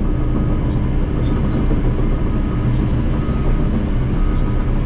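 Heavy earthmoving machine's diesel engine running steadily under load, with a faint whine that comes and goes.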